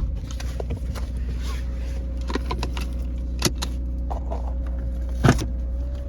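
Subaru Crosstrek driving: a steady low rumble of engine and road. Two sharp knocks come through it, one about three and a half seconds in and a louder one a couple of seconds later.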